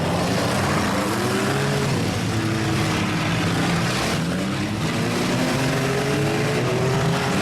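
Several demolition derby cars' engines running and revving together in a loud, continuous mix, their pitches rising and falling independently.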